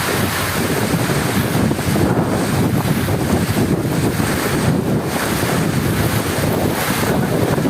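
Heavy rain falling steadily with wind, a dense rushing noise weighted toward the low end, with small rises and falls in level.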